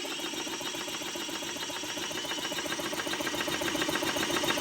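Toro walk-behind lawnmower's small engine running with a fast, even beat, slowly growing louder.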